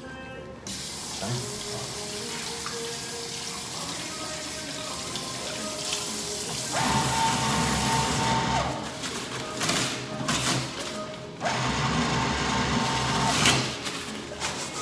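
Water running hard from a sink tap, over faint background music. It gets louder twice with a steady whine mixed in, for a couple of seconds each time.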